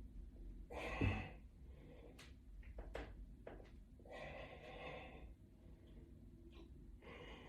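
A man's breathing during seated resistance-band military presses: three heavy exhalations a few seconds apart, with a few faint clicks between them.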